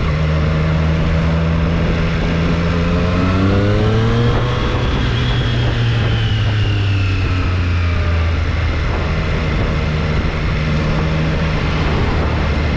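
2022 Triumph Street Triple 765 RS's 765 cc inline three-cylinder engine pulling under way. The revs climb for about a second from around three seconds in, then fall away slowly. There is a steady rush of noise underneath.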